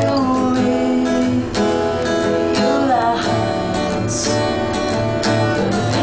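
Music: a ballad with strummed acoustic guitar, the notes ringing on steadily.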